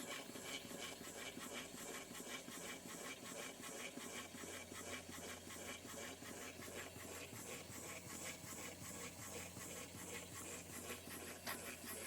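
Small Retrol live-steam beam engine running steadily: a faint, even, rapid chuffing with steam hiss.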